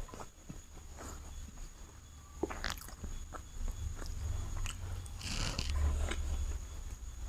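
Close-miked mouth sounds of a person eating chicken biryani: chewing and biting, with irregular wet clicks and smacks and a denser bout about five seconds in.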